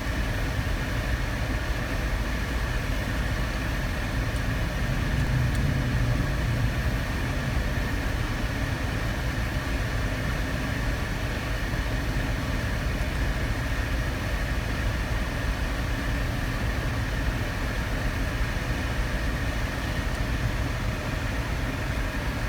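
Steady running noise inside a car's cabin, engine and air conditioning blowing, with a faint steady whine over it.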